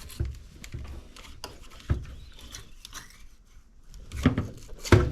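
Handling noise: scattered clicks and light knocks of parts and tools being handled, with two louder knocks near the end.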